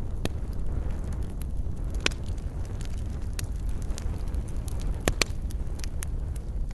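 Wood campfire burning with a steady low roar and scattered crackles and pops, two of them sharper and louder, about two seconds in and about five seconds in.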